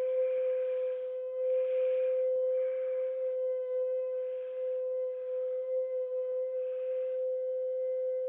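A steady, unwavering droning tone with a stack of even overtones: the kind of 'strange trumpet' sky noise people reported hearing on waking. Short hissy swells come and go over it about every second or so.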